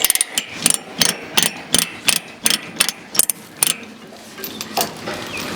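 Ratchet chain binder being cranked on a load chain, its pawl clicking at an even pace of about three clicks a second, stopping about four seconds in with a stray click or two after.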